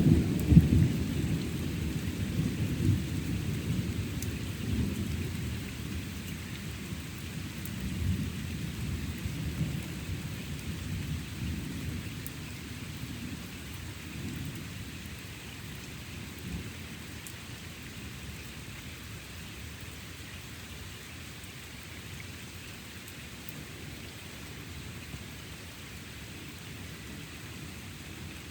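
A thunderclap's low rumble, loudest at the start and dying away over about fifteen seconds, over steady rain falling.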